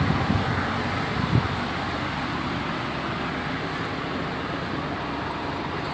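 Truck's air-conditioning blower and running engine: a steady, even rushing noise with no break, the aircon now working and blowing cold.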